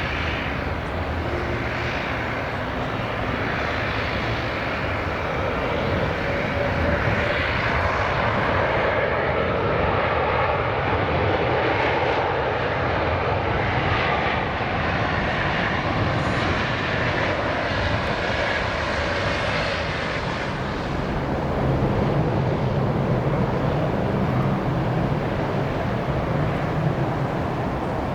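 Jet airliner engines on landing, a steady rushing roar that swells twice.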